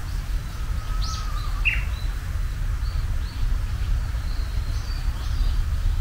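Japanese bush warbler calling: a long faint low whistle, then a sharp falling note about a second and a half in, followed by fainter high chirps. A steady low background noise runs underneath.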